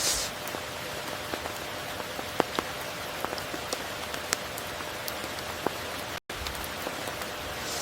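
Steady tropical rain, with sharp individual drops pattering through it. The sound cuts out completely for an instant about six seconds in.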